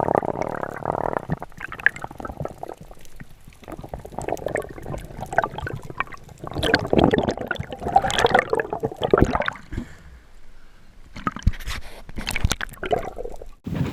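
Water sloshing and gurgling close to the camera, in irregular surges and splashes.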